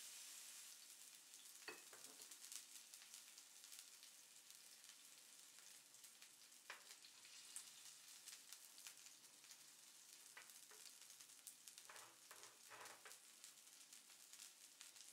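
Chicken breast frying in oil in a hot cast iron skillet: a faint, steady sizzle full of small crackles, with a few sharper pops and clicks, most of them near the end.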